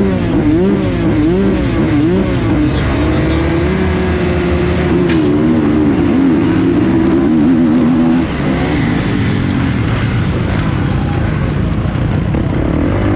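450cc four-stroke motocross bike engine being ridden hard, its pitch rising and falling quickly over and over with the throttle. It holds a steadier pitch for a few seconds, drops briefly about eight seconds in, then picks up again.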